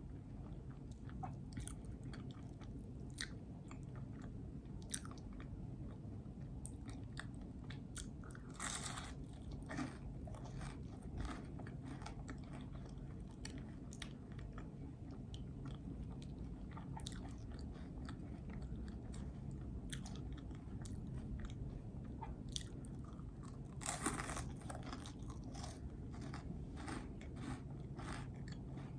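Close-miked chewing of a peanut butter and jelly sandwich: soft wet mouth clicks and smacks scattered throughout, with two louder, longer bites about nine and twenty-four seconds in.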